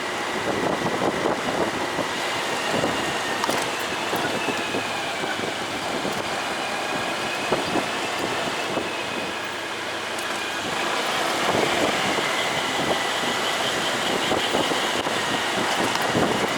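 Riding on a motorcycle in traffic: steady engine and road noise with a faint high whine, getting a little louder about eleven seconds in.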